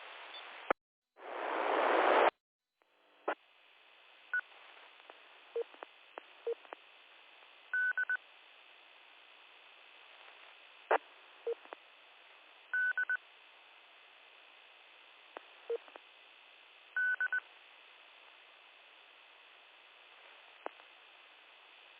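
Radio channel hiss with a loud rush of open-squelch noise that swells for about a second and cuts off sharply. After that comes quieter hiss with scattered clicks and short high beeps, three times about five seconds apart.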